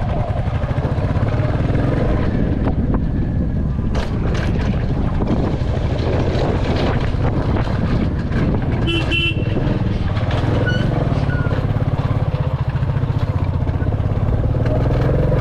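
Royal Enfield Classic 350's single-cylinder engine running steadily under way, with a short horn toot about nine seconds in.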